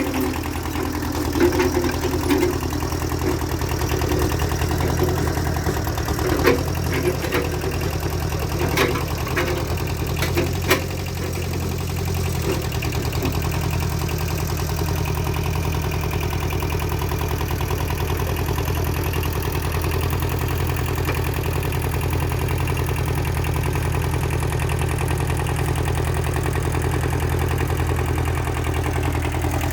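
Engine idling steadily, with a few sharp knocks about six to eleven seconds in.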